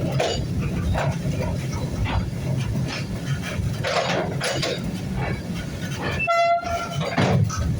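Brake van rolling along the rails behind a steam train: a steady low rumble with irregular knocks and rattles from the wagon. About two-thirds of the way through there is a brief high-pitched tone.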